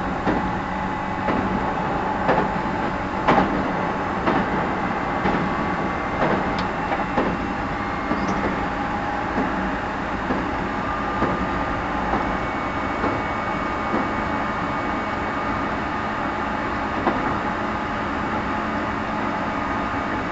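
Interior running sound of a JR 211 series 5000 subseries electric multiple unit, heard in the motor car KuMoHa 211-5009: a steady rumble of wheels and running gear at a constant speed. A few sharper knocks come in the first few seconds.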